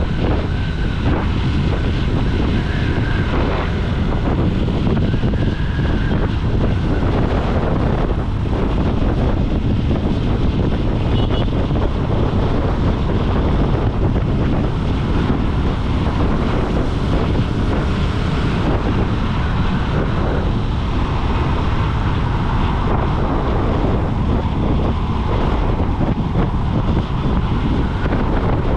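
Wind rushing over the microphone on a moving motorcycle, a steady low rumble with the bike's engine and road noise underneath.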